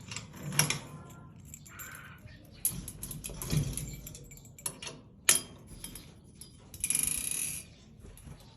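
Irregular clicks and light rattling, with a short rustling hiss about seven seconds in.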